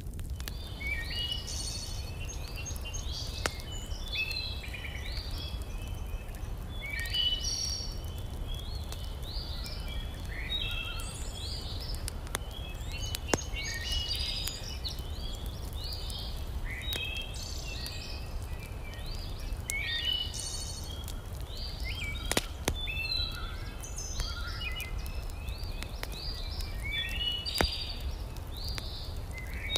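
Songbirds chirping and singing in many short, repeated calls over a steady low rumble, with a few sharp clicks scattered through.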